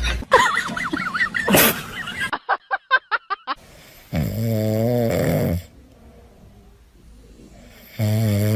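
A pet snoring: two long, buzzing snores about four seconds apart. They follow a rapid run of short pulses, about seven a second.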